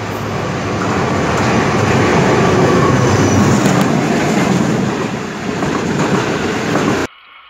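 Passenger train running past close by at speed: a steady, loud rumble and rattle of wheels on rails. It cuts off suddenly near the end.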